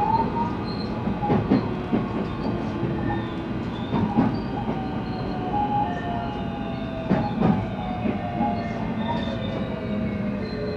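JR West 223 series electric train heard from inside the motor car, running with its inverter and traction motor whine slowly falling in pitch over a steady rumble. The wheels clack over rail joints a few times.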